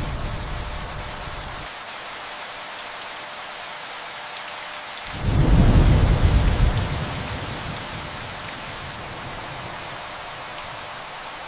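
Steady rain with rolling thunder. A rumble fades away in the first second or two, and another comes in about five seconds in, peaks, then dies away over a few seconds.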